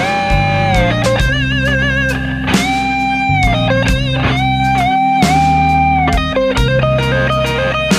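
Electric guitar playing an improvised lead solo over a backing of bass and drums. It plays long held notes with string bends and wide vibrato.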